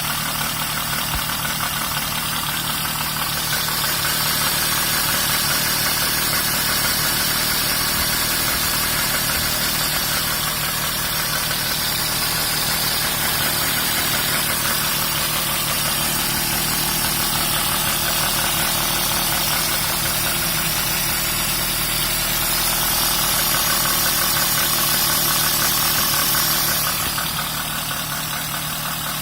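Renault Twingo's 1.2-litre D7F four-cylinder petrol engine idling cold, with an idle the owner tags as irregular. It grows a little louder about four seconds in and again past the twenty-second mark, then settles back near the end.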